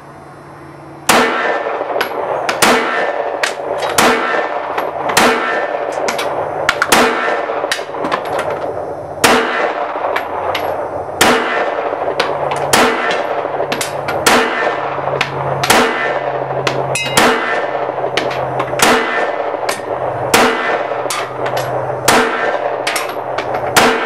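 Glock 19 Gen4 9mm pistol firing a steady string of Winchester white box rounds, shots about a half second to a second apart, each with a ringing tail. The string begins about a second in and runs without a stoppage.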